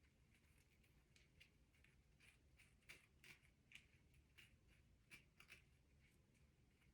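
Near silence, with faint, scattered scratchy ticks from a small brush stroking baby hair down along the hairline.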